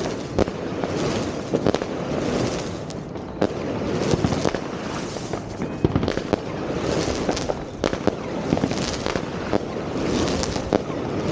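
Fireworks going off all around: a continuous crackling din with many sharp bangs, several louder reports standing out above the rest.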